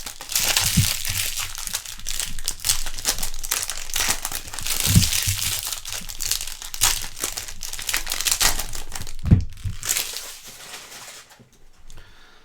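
Trading card pack wrappers crinkling and tearing as packs are torn open and handled, with a few soft knocks. The crackling thins out and goes quiet about a second before the end.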